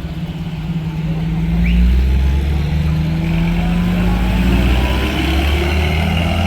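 A vehicle's engine running at low revs, getting louder over the first two seconds and then holding steady, its pitch drifting slightly.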